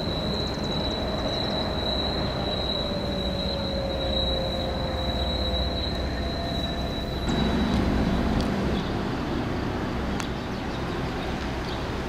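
Commuter train on the track: a steady high-pitched wheel squeal and a lower tone slowly falling in pitch over a rumble. About seven seconds in the sound changes abruptly to a deeper rumble as a commuter train approaches.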